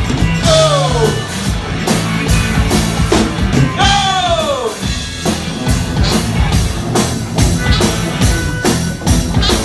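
Live rock band playing an instrumental stretch of a glam-rock song, with drum kit and guitar. Two long falling glides stand out, one near the start and one about four seconds in.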